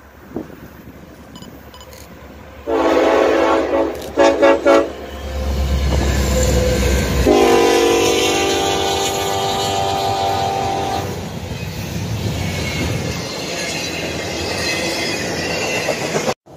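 Norfolk Southern diesel locomotive leading a double-stack intermodal freight train: the horn sounds a long blast, then two short ones, and the engine rumbles loudly as the locomotive passes close. Another long horn blast follows, and then the steady rolling noise and clatter of the stack cars going by, cut off abruptly near the end.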